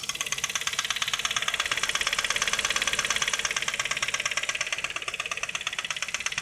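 Ford Focus 2 1.8 engine running with a rapid, even metallic knocking on every turn, swelling a little in the middle. The men suspect a bent part inside the engine striking the pistons at top dead centre.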